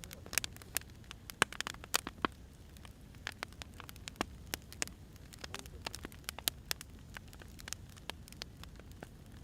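Firewood burning: irregular sharp pops and snaps over a steady low rumble of the flames.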